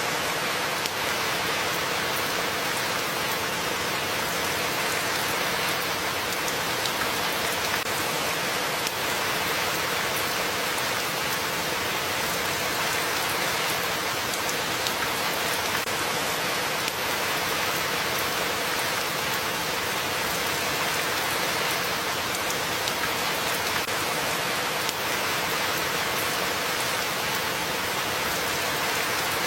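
Steady rain falling, an even, unbroken hiss with faint scattered drop ticks.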